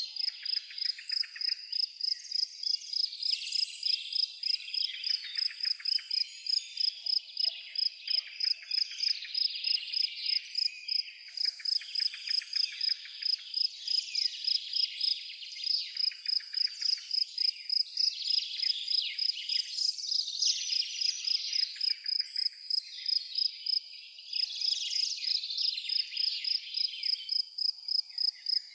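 Outdoor nature chorus: a high chirp repeats evenly two to three times a second, like a cricket, over a busy layer of twittering calls.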